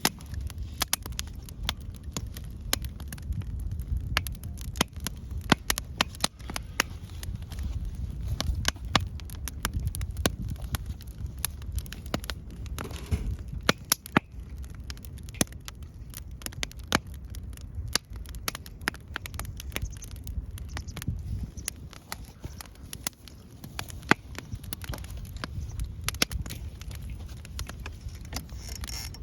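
Wood fire crackling in a Coleman Fire Disk, with irregular sharp pops over a steady low rumble.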